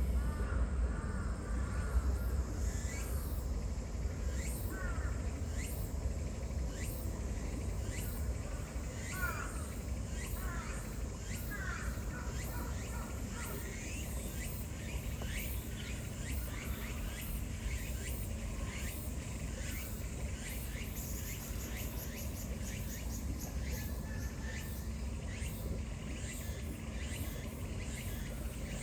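Outdoor ambience: birds give short calls in the first half, and insects chirp in quick, regular pulses throughout, over a steady low rumble.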